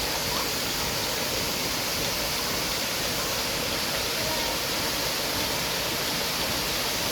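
Steady rush of falling water, an even roar.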